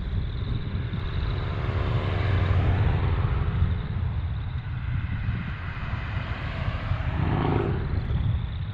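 A vehicle's engine passing by over a steady low rumble, swelling a couple of seconds in and then fading.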